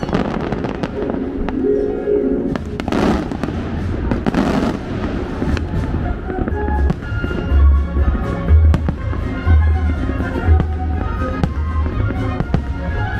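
Aerial fireworks display: shells bursting in many sharp bangs and deep booms, over music playing throughout.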